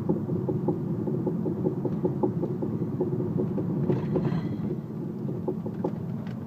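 Audi A3 coasting with the clutch in, a repetitive knock of about three a second sounding over steady road rumble; the knocks space out near the end as the car slows.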